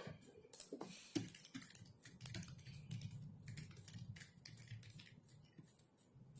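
Computer keyboard typing: a quick, uneven run of key clicks, with a low hum beneath them from about two seconds in.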